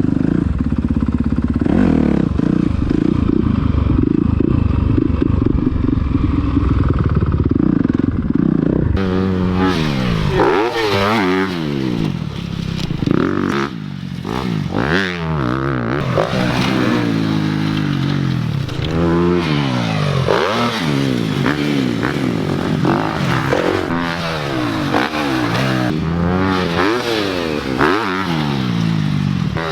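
Motocross dirt bike engines on a track: a steady high engine note for the first several seconds, then repeated rising and falling revs as the bikes accelerate, shift and back off.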